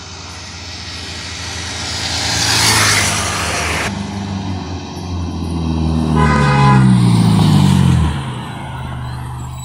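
Honda Civic Si four-cylinder engine breathing through a stainless 4-into-1 header and open catback exhaust, revving up twice, loudest around the second rev, with the pitch dropping away about eight seconds in before it settles back to a lower steady idle.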